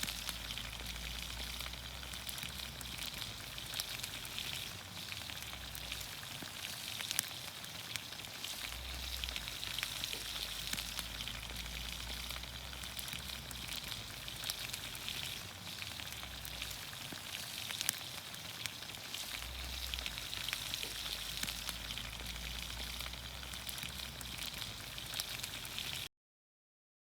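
Vegetables sizzling in olive oil in a pan over a campfire: a steady frying hiss dotted with small pops and crackles. It cuts off suddenly near the end.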